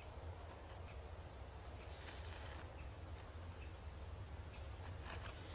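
Faint outdoor wilderness ambience with a small bird calling three times, each a short, high note that falls slightly in pitch.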